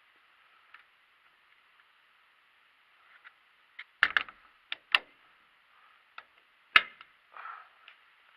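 A few sharp clicks and knocks over a faint steady hiss: a quick cluster about four to five seconds in, then a single louder knock a little before seven seconds and a short rustle after it.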